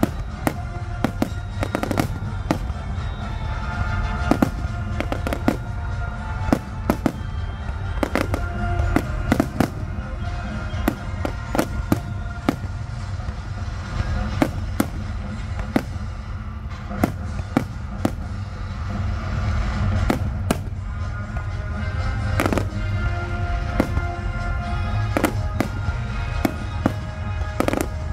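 Aerial fireworks bursting in a dense series of sharp bangs, often several a second, with music playing underneath.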